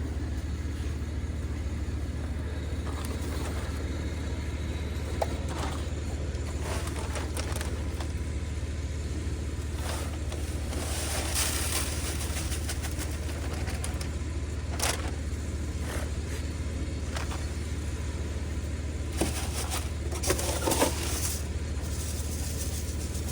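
Steady low hum of an idling vehicle engine, with occasional short scrapes and crunches that cluster about twenty seconds in.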